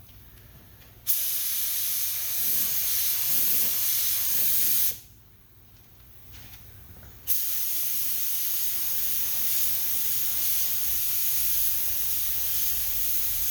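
Air spray gun spraying lacquer primer at low air pressure: a long hissing burst starting about a second in and lasting nearly four seconds, a pause of a couple of seconds, then a second burst from about seven seconds in.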